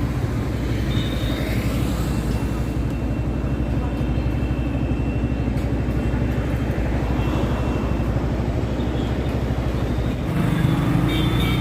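Yamaha motorcycle being ridden through traffic: a steady low rumble of engine, road and wind noise, a little heavier about ten seconds in.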